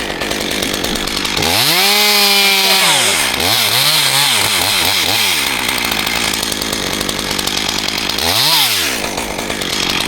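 Chainsaw engine being revved up and down: it climbs to full throttle, drops back, and is blipped several times in quick succession. After that it runs steadily for a few seconds, is blipped once more, and revs up again near the end.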